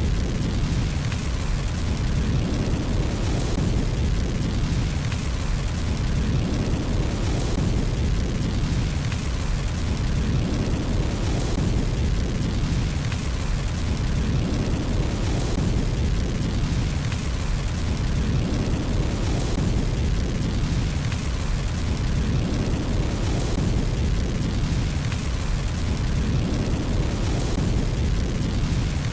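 Crackling fireplace fire: a steady low rumble of burning with bursts of crackling that recur at even intervals about every two seconds.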